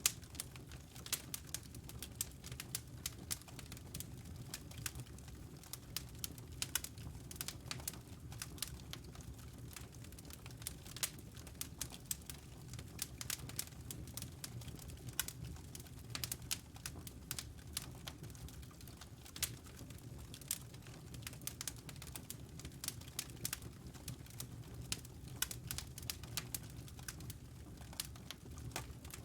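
Wood logs burning in a fireplace: dense, irregular crackling over a low, steady rumble of the flames.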